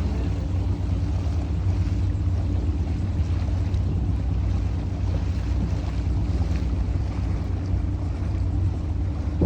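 A small boat's outboard motor running at a steady speed, a low even hum, with a steady rush of wind and water over it.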